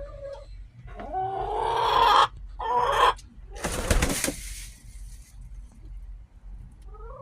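Hens calling: a few drawn-out, slightly rising calls in the first three seconds, then a brief rustling noise about four seconds in.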